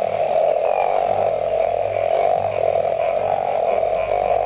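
Giant burrowing frog (eastern owl frog) calling: a loud, steady run of low calls with no break.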